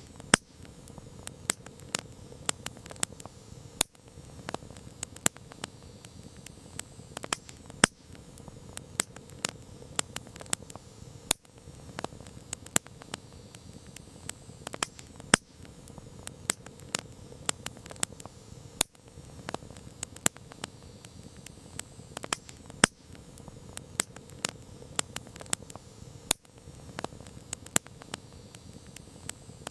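Wood campfire crackling: irregular sharp pops and snaps, several in a second at times, over a steady hiss of the burning fire.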